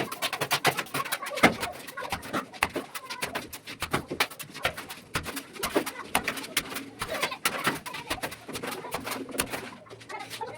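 Pigeons cooing, amid many short, sharp clicks and scrapes.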